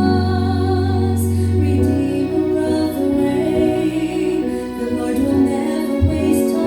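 Gospel song: a woman singing over instrumental accompaniment with held notes.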